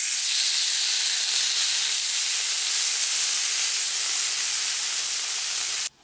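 Food sizzling in a hot pan over a fire, a loud steady hiss that cuts off suddenly near the end.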